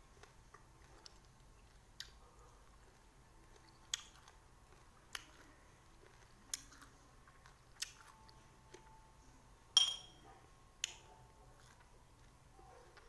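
Mouth sounds of a person eating raw lime: quiet chewing with sharp clicks and smacks every second or two, the loudest about ten seconds in, ringing briefly.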